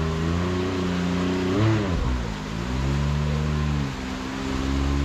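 Can-Am Maverick X3 Turbo side-by-side's turbocharged three-cylinder engine working under throttle in low gear while climbing over rock, holding a steady pitch with a short rev about a second and a half in, a dip after it, and another rise near the end.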